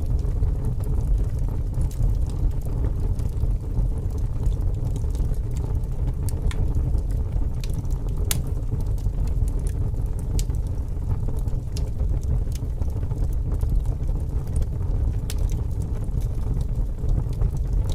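Wood fire crackling, with scattered sharp pops, over a steady, loud low rumble of wind.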